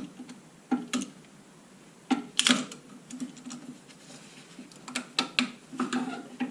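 Hand tools being worked: a string of irregular sharp clicks and light metallic knocks, the loudest pair about two and a half seconds in.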